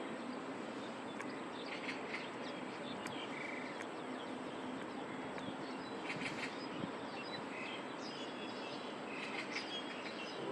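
Outdoor ambience: a steady background hiss with many small birds chirping, in short scattered calls and brief trills.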